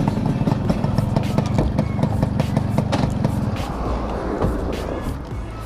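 Yamaha RX-King's 135 cc two-stroke single-cylinder engine running under way. About three and a half seconds in, the engine note drops and the sound quietens toward the end.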